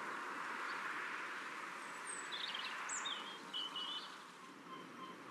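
Outdoor ambience: a steady background hiss that slowly fades, with birds chirping in short calls and quick sweeps about two seconds in, then a run of short, evenly repeated peeps near the end.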